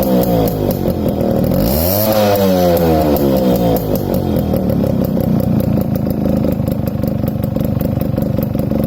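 Suzuki Max 100 single-cylinder two-stroke motorcycle engine revved: the revs fall at the start, rise once and fall back about two seconds in, then settle into a steady, rapidly pulsing idle.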